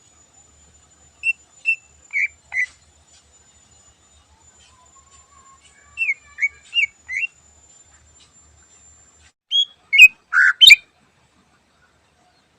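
Greater green leafbird (cucak ijo) singing in short, sharp whistled notes, in small groups: two pairs early on, four quick notes in the middle, then a louder cluster of notes near the end.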